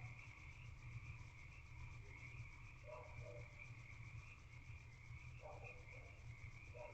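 Faint, steady chorus of distant frogs calling without a break over a low hum, with a few brief lower sounds scattered through.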